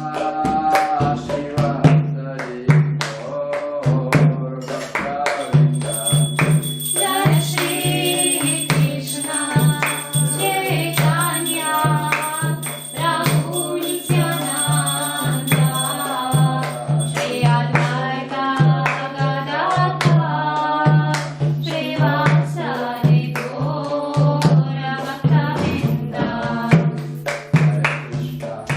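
Devotional kirtan music: voices singing a chant over a regular drum beat of about two strokes a second, with jingling hand percussion.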